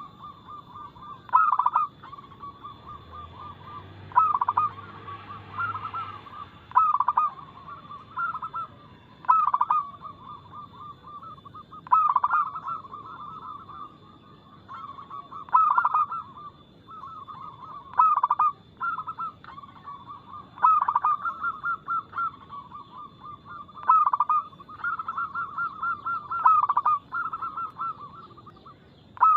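Zebra doves (perkutut) cooing. A loud phrase comes every two or three seconds, opening with a quick drop in pitch and running into a fast train of short staccato notes, over a steady run of softer notes.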